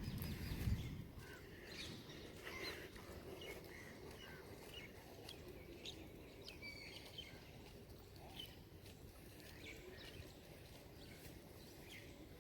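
Birds chirping faintly, scattered short calls, over quiet outdoor background noise. A low rumble dies away in the first second, ending with a single thump.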